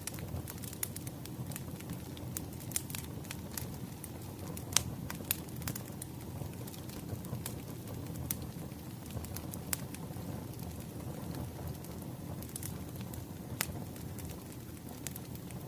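Wood fire crackling: frequent sharp, irregular pops over a low, steady rumble of flames.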